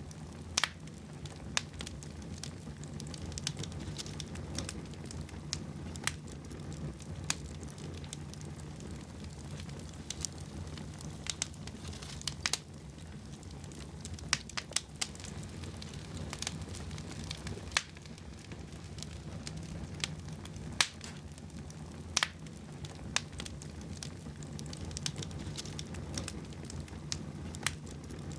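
Fire burning in a fireplace: irregular sharp crackles and pops, now and then a louder one, over a steady low rumble of the flames.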